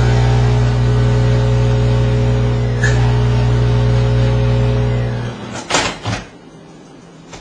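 Microwave oven running with a loud, steady transformer hum while a halved grape sparks into plasma under a glass inside, with a short pop about three seconds in. The hum cuts off after about five seconds, followed by a few sharp clunks.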